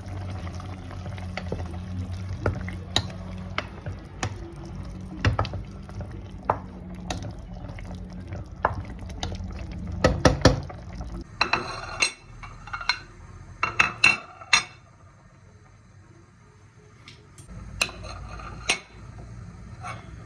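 Dishes and cutlery clinking and knocking, with a steady low hum under the first half that stops about eleven seconds in. A run of bright ringing clinks follows, then a short lull and a couple more clinks near the end.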